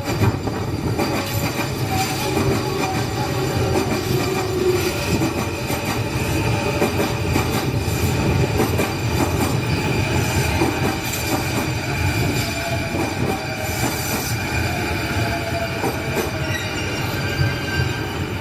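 Electric commuter train of the JR Chuo Line moving slowly past. Its running gear rumbles steadily, with thin high squealing tones from the wheels on the rails.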